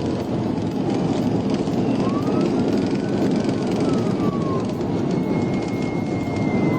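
Police car siren wailing, slowly rising and falling, over loud steady engine and road noise from the pursuing patrol car at speed.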